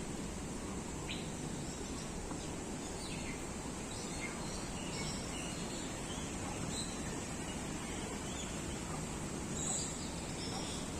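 Several birds giving short, scattered chirps and calls over a steady high-pitched hiss and low background rumble.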